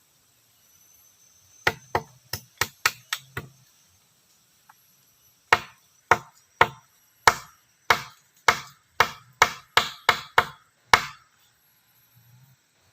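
Wood being chopped with a blade: a quick run of about seven blows, a pause, then about a dozen steadier blows a little under two a second.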